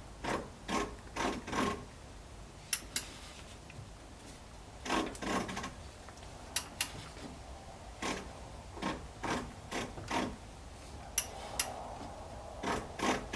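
1964 Ford Thunderbird engine being turned over by hand with a ratchet on the crankshaft bolt: short runs of three or four clicks, with a few sharper single clicks between. The owner hears the clicking as a ratcheting and suspects something is wrong in the transmission.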